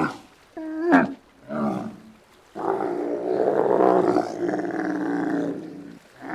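Giraffe calls: two short pitched calls that bend downward, then one long, wavering call lasting about three and a half seconds.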